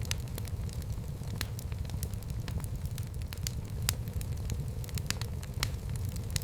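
Wood fire burning in a fireplace: a steady low rumble of the flames with irregular crackles and pops, a few of them sharper than the rest.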